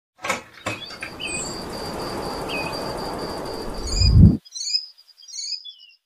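Birds chirping over a steady outdoor hiss with a thin, steady high tone, a deep low swell that cuts off suddenly just after four seconds, then a quick run of short falling chirps.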